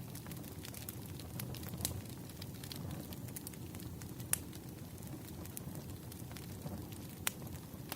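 Wood fire crackling: a steady low rumble of burning logs with scattered sharp pops and snaps, two of them louder, about four and seven seconds in.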